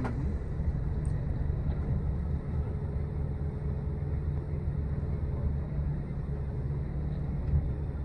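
Steady low rumble of a vehicle's engine running.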